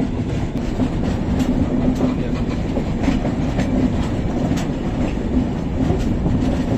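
Diesel-hauled Indian Railways express train running at speed, heard from on board: a steady rumble of the coaches with a low hum, and wheels giving a few sharp clicks over rail joints at uneven intervals.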